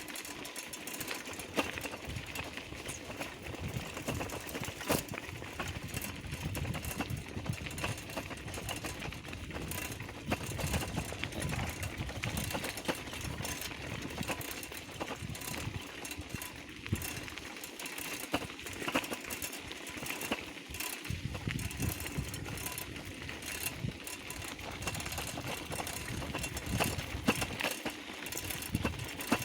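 Bicycle rolling along a rough rural road: steady tyre noise with frequent small rattles and knocks from the bike.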